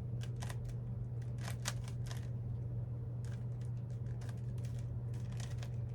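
Plastic Rubik's-type puzzle cube being turned quickly by hand: a string of irregular clicks and clacks as the layers snap round, over a steady low hum.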